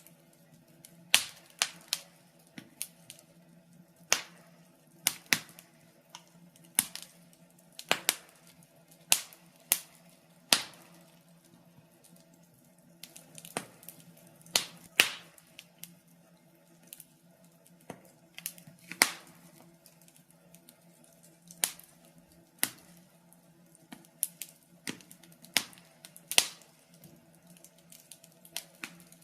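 Wood fire in a fireplace crackling, with irregular sharp cracks and pops about once a second over a faint steady low hum.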